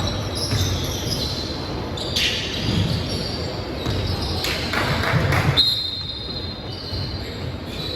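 Basketball game play on an indoor court: a ball dribbled and bouncing on the hardwood, with short high sneaker squeaks.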